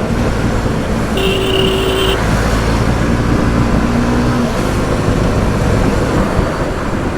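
Road and traffic noise from a motorcycle riding in city traffic: a steady engine and wind rumble. About a second in, a steady high tone sounds for about a second.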